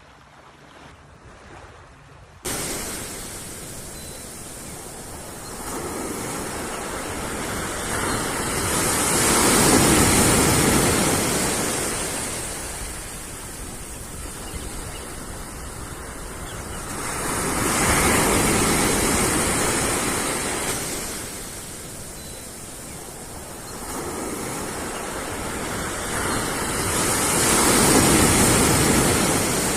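Sea waves breaking and washing on a shore, the surf swelling and falling back three times, roughly every eight to ten seconds. It starts abruptly about two seconds in, after a brief quiet moment.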